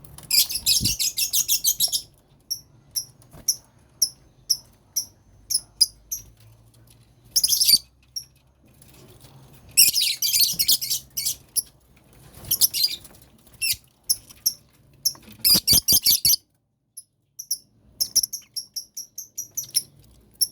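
Lovebirds in a colony cage chirping: short, high-pitched chirps with several dense runs of rapid chatter every few seconds. A brief clatter comes about three quarters of the way through.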